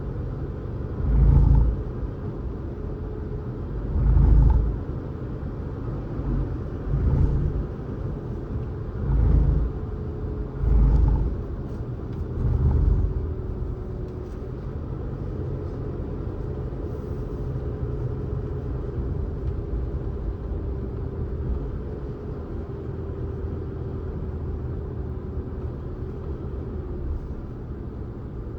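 Car driving on a road: steady low road and tyre noise, with six heavy low thumps about every two seconds in the first half, then a steady hum for the rest.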